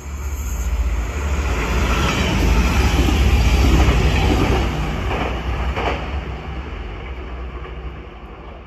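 DSB IC3 diesel express train running through the station along the platform, its wheels rumbling and rushing on the rails. The noise swells to its loudest about three to four seconds in, with a couple of sharp clacks near the middle, then fades as the train moves away.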